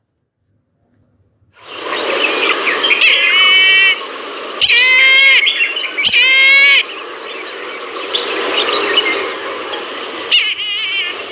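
Brahminy kite calling: several drawn-out, wavering calls, the two loudest in the middle, over a steady background hiss. It begins after about a second and a half of silence.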